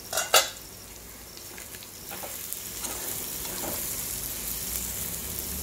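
Dried seer fish fry with onions sizzling in oil in a steel kadai while a steel spoon stirs it. A couple of sharp metal clinks just after the start, and the sizzle grows louder from about halfway. The fry is nearly done but still needs a little more frying.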